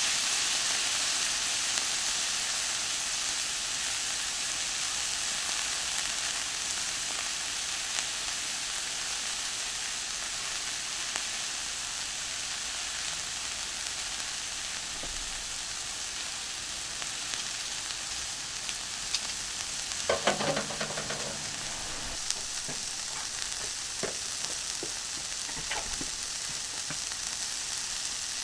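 Kalbi beef sizzling on a hot iron griddle plate, a steady frying hiss that eases off slightly. Scattered light clicks run through it, with a short clatter about twenty seconds in.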